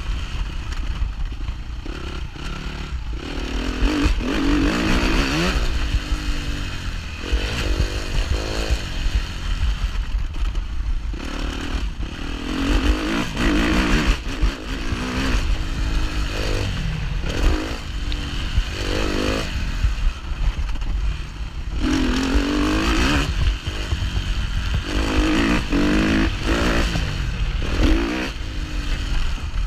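Suzuki 250 cc four-stroke motocross bike's engine being ridden hard, revving up and dropping back again and again as the throttle opens and closes and gears change, over a constant low rumble.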